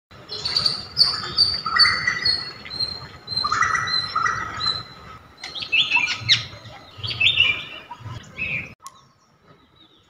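Birdsong sound effect: birds chirping and trilling in quick series of high notes, cutting off suddenly over a second before the end.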